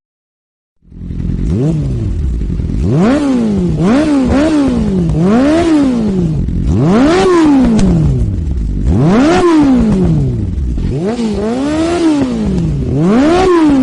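A motorcycle engine revved up and down over and over. Its pitch climbs and drops in repeated swells of one to two seconds each, starting about a second in.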